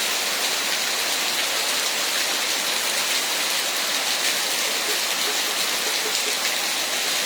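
Heavy tropical rain pouring down and hissing on the ground and surfaces, a steady, dense downpour.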